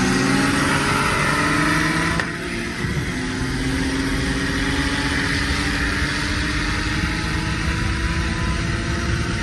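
Turbocharged BMW M50 straight-six in an E36 accelerating flat out through the gears, rising in pitch. About two seconds in there is a brief gear change, then it pulls steadily up through the next gear.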